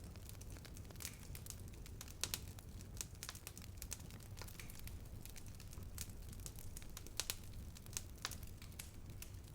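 Open fire burning and crackling: irregular sharp snaps and pops, a few louder than the rest, over a steady low rumble.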